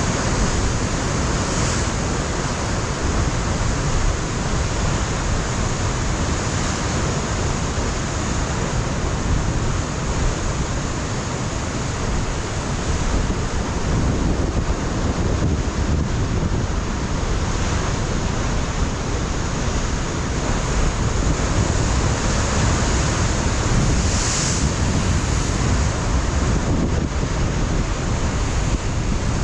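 Ocean surf breaking and washing against a rocky shore in a steady dense roar, with wind buffeting the microphone and low rumble throughout.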